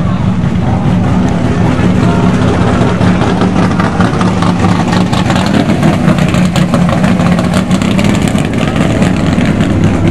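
A car engine idling nearby with a steady low hum, under the murmur of voices.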